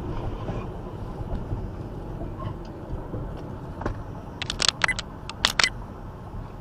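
Steady road and engine noise from a moving car, heard from inside it, with a quick cluster of sharp knocks about four and a half to five and a half seconds in.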